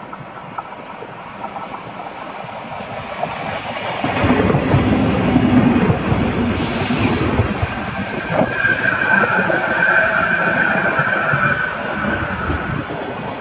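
Renfe Media Distancia passenger train pulling into a halt, getting much louder about four seconds in as it passes close alongside, with wheels running and clattering over the rails. From about eight seconds a high steady brake squeal rises over the running noise as the train slows to stop.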